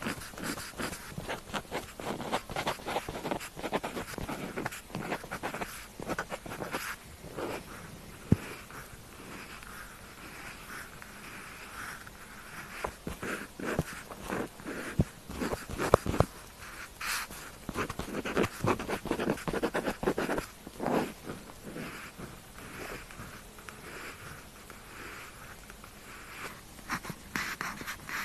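Pen tip scratching across paper in short, irregular writing strokes, with a few sharp clicks standing out.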